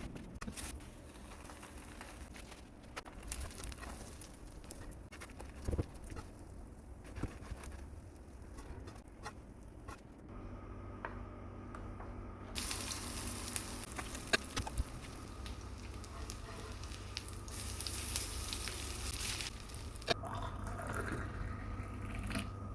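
Water running from a tap into a sink for several seconds past the middle, amid scattered light clinks and knocks of kitchen handling.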